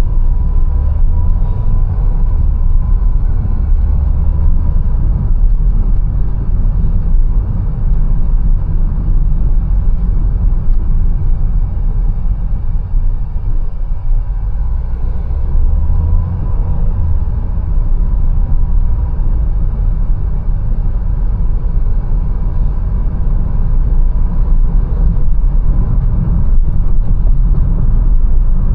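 Mercedes-Benz A180 driving along with a steady low rumble of engine and road noise, and a faint thin whine running through it.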